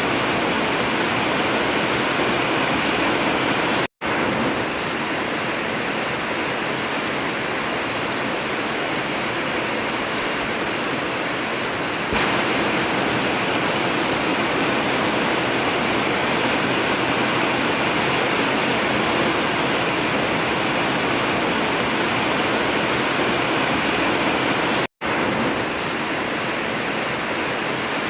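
Heavy rain pouring steadily on an old tin roof, an even hiss with no thunder. It cuts out for an instant twice, about four seconds in and near the end.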